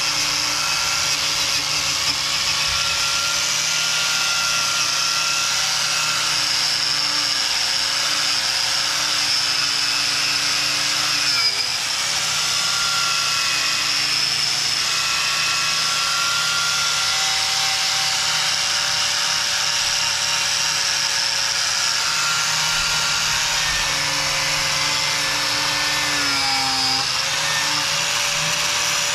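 Angle grinder with a stiff wire cup brush running continuously, stripping old undercoat off cast iron. Its steady whine sags in pitch briefly twice, about a third of the way in and near the end, as the brush is bowed under load.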